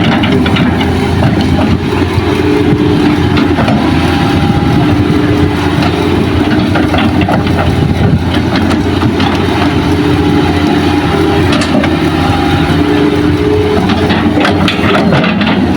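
Heavy diesel engines of an excavator and dump truck running steadily at a working idle, with scattered light clanks and knocks over the engine drone.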